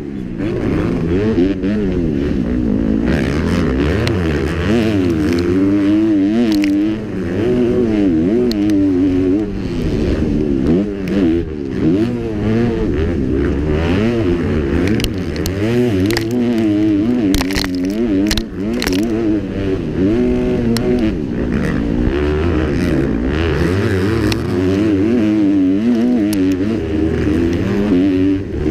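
Kawasaki KX250F four-stroke single-cylinder motocross engine at race pace, heard on board, revving up and down hard every second or so as the rider works the throttle and gears. Short knocks from the bike and track come through now and then, a cluster of them past the middle.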